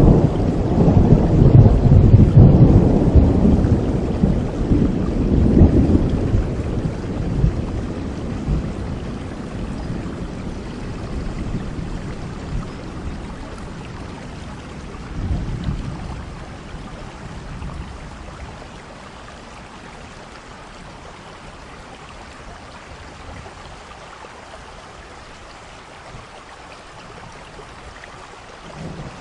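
Steady rain with rolling thunder: a long, loud rumble fades away over the first several seconds, a shorter rumble comes about halfway through, and the rain then goes on alone until a new rumble starts at the very end.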